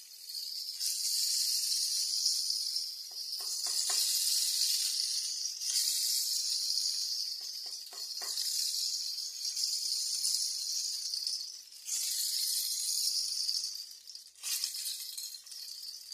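A 120 cm long-duration rain stick being played: a steady high, rain-like hiss as its fill trickles down inside the tube, swelling afresh every few seconds each time it is turned over. A few soft taps about three and eight seconds in.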